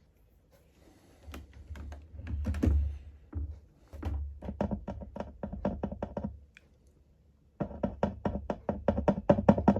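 A Bluetooth speaker's driver gives out a low hum with rapid crackling clicks as the input pins of its amplifier IC are touched. The sound comes in two spells with a short break past the middle. The amplifier and speaker work, so the no-sound fault lies in the volume control potentiometer.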